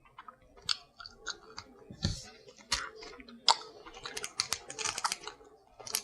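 Close-up eating of crab and lobster: a run of sharp clicks and crackles from shell being picked and cracked, mixed with chewing and mouth sounds, busiest about four to five seconds in.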